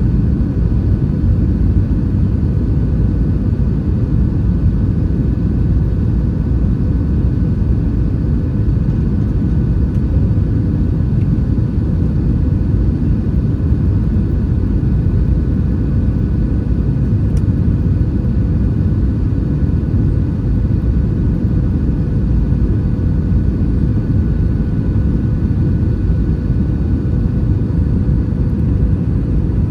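Steady cabin noise of an Airbus A320-232 in flight: an even low rumble of its IAE V2500 turbofan engines and airflow over the fuselage, with a few faint steady hums above it and no change throughout.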